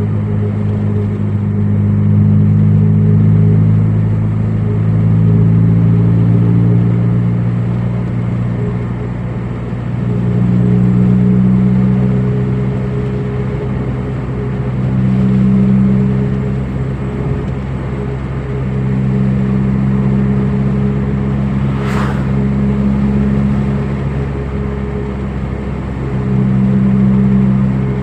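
Car engine running steadily, its revs and loudness rising and falling every few seconds as it is driven. A single sharp click comes about two-thirds of the way through.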